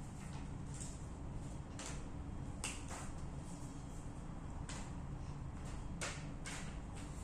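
Scattered short light clicks and rustles, roughly one every second, over a steady low hum.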